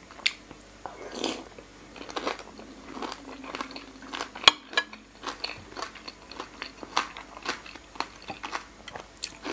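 Mouth sounds of chewing and biting a mouthful of soy-marinated raw salmon: wet chewing with many short crunchy clicks. One sharper click comes about four and a half seconds in.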